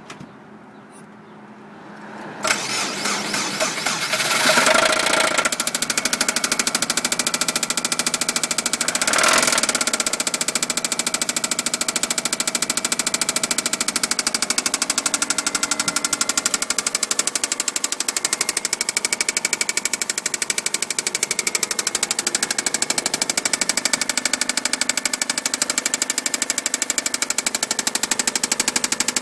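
A Subaru engine starting about two seconds in, revving up twice, then running with a rapid, steady knock: rod knock and bearing noise from an engine that was run out of oil several times.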